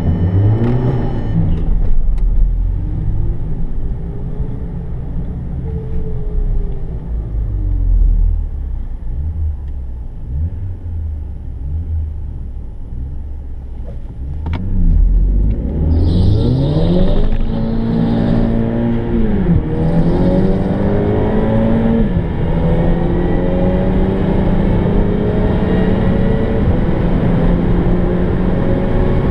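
Audi TT 2.0 TFSI's turbocharged four-cylinder engine heard from inside the cabin. The revs rise and fall a few times while the car sits at the start. About halfway the engine gets louder as the car launches, and it pulls hard through the gears, its pitch climbing in steps.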